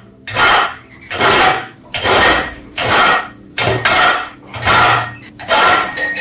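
Hand scraping or abrading of the rusted metal lamp, in seven even back-and-forth strokes a little faster than one a second, each a short rasping scrape.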